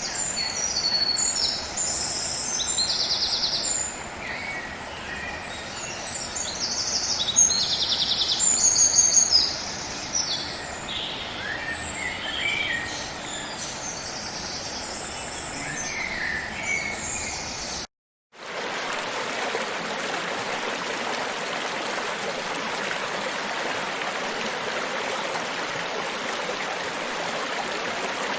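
Several birds chirping and trilling over a steady background hiss. About two-thirds of the way through the sound cuts out for a moment, then a stream runs with a steady rushing flow.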